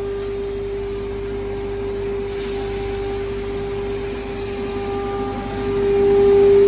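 Large hammer mill driven by a 55 kW electric motor running, a steady high-pitched hum over a rushing noise, swelling louder near the end.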